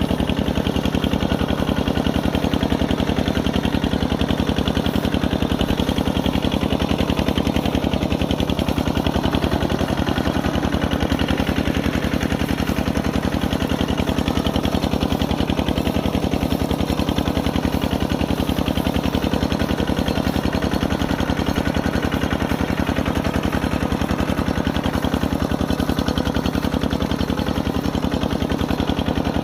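Kubota RT140 single-cylinder diesel engine running steadily, its exhaust firing in rapid, evenly spaced pops.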